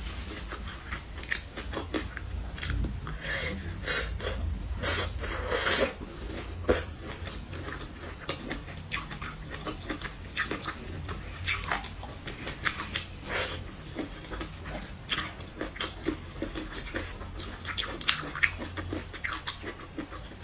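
Close-miked chewing and biting of a chili-dressed grilled broccoli skewer: irregular crisp clicks and crunches in the mouth, over a steady low hum.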